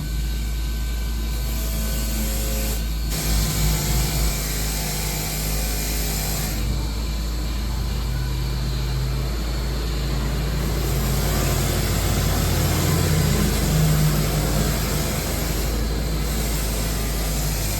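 A workshop power tool running steadily during rust removal: a continuous hiss over a low hum, changing character a few times as the work goes on.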